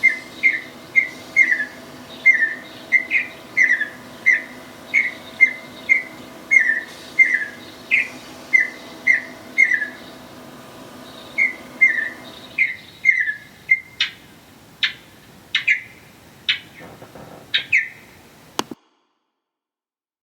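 A bird calling over and over with short, slightly falling chirps, about two a second, over a faint steady hum. The hum stops about twelve seconds in, and the later calls come sharper and further apart before the sound cuts off suddenly near the end.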